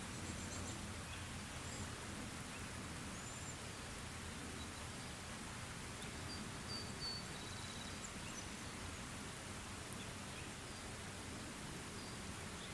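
Faint, steady light rain ambience with a few brief, high bird chirps.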